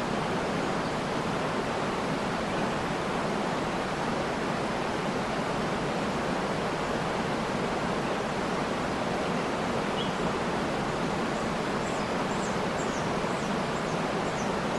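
Waterfall rushing steadily, with a few faint high bird chirps about ten seconds in and again near the end.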